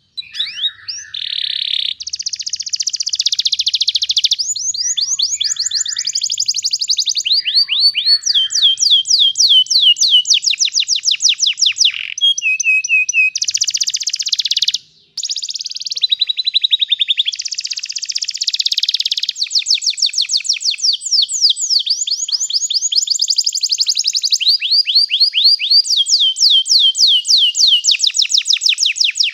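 Domestic canary singing a long, continuous song of fast rolling trills: phrase after phrase of rapidly repeated high, downward-sweeping notes, with a brief break about halfway through.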